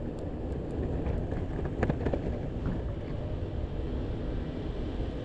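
Electric skateboard rolling slowly over pavement: a steady rumble of the wheels with wind on the microphone, and a few light clicks in the first few seconds.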